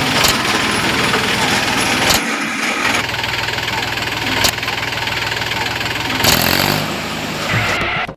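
Mahindra mini tractor engine running steadily, with a few sharp clicks and a rise in pitch about six seconds in as it is revved.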